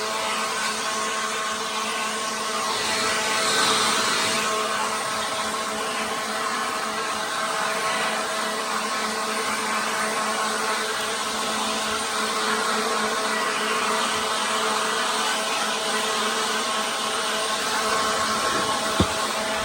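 Electric dust-cleaning machine running steadily with a motor whine over a rush of air, swelling briefly a few seconds in. A single sharp knock near the end.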